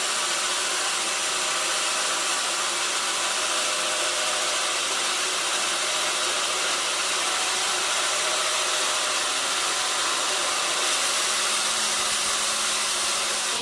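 Sawmill machinery running steadily, a constant mechanical whooshing noise with no breaks.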